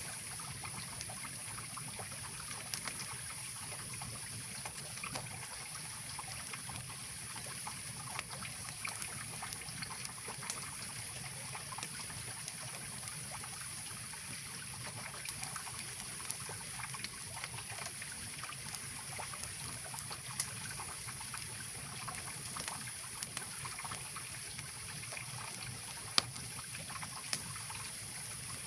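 Mountain river rushing steadily, with scattered sharp pops and crackles from a wood campfire; the loudest pop comes near the end.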